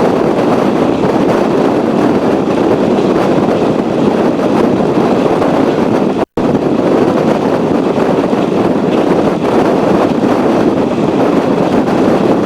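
Passenger train running at speed, heard from inside the coach as a loud, steady rushing rumble of wheels and track. The sound cuts out completely for a split second about halfway through.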